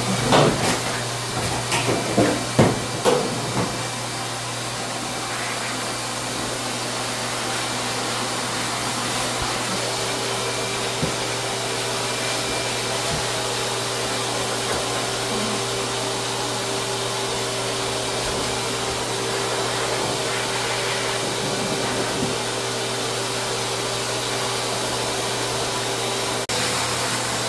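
Motor-driven dog-wash blower running steadily: a low motor hum under a strong rushing hiss, with a few knocks in the first few seconds.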